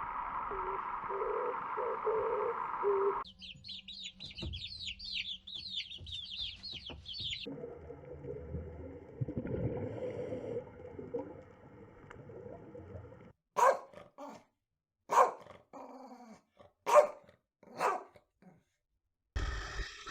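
A run of different animal sounds: a steady call at first, then about four seconds of rapid high chirping birdsong, and later about five loud separate calls with gaps between them.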